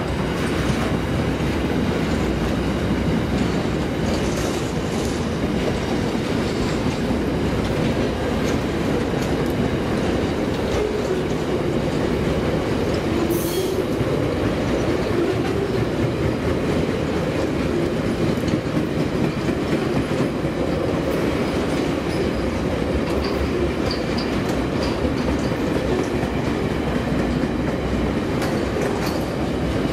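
Freight wagons of a long interstate freight train rolling steadily past close by: a continuous rumble of steel wheels on the rails, with the wheels clicking over the rail joints.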